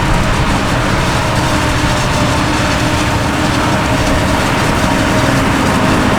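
Heavy farm machinery running close by: loud, steady engine and mechanical noise with a few held tones through it.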